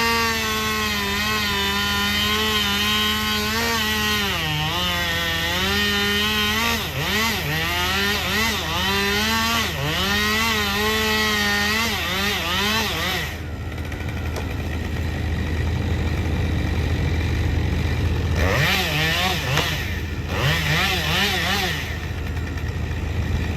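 Stihl MS 881 chainsaw running at high revs in a cut, its pitch dipping and recovering as it loads up in the wood. About 13 seconds in it drops back, leaving a low, steady engine drone, then revs up again briefly near the end.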